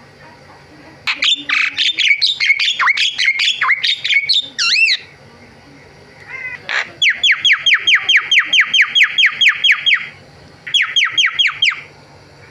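Javan myna singing: a varied phrase of whistles and harsh squawky notes, then a fast run of repeated falling notes at about six a second, and a shorter run of the same near the end.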